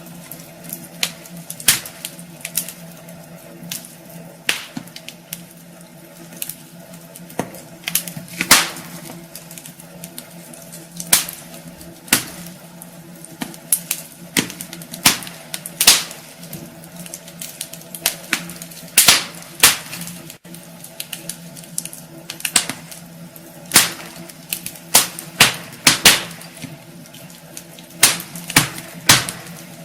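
Wood fire burning in a fireplace, crackling with irregular sharp pops of varying loudness over a steady low hum.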